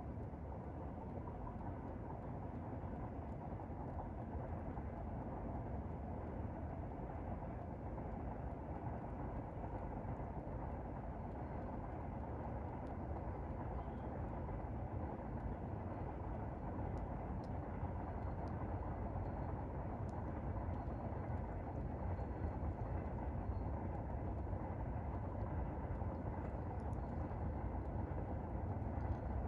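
Steady low rumble of a train on the railway, slowly growing louder, with a few faint clicks.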